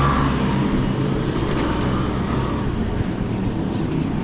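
Road traffic heard from a bicycle moving along a city street: a steady rushing noise with the low hum of nearby motor vehicles.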